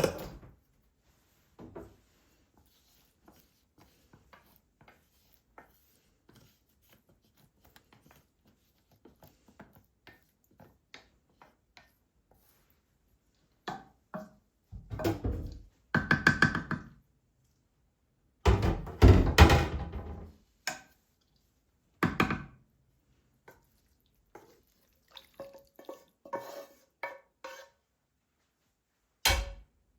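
Kitchen handling sounds: scattered light clicks and taps, then louder clusters of knocks and clatter from items such as dishes and utensils being handled and set down, some of them briefly ringing.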